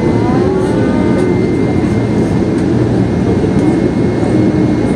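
Airbus A321 cabin noise: a steady rush of jet engine and airflow with a thin steady whine running through it. Faint voices show up briefly in the first second or so.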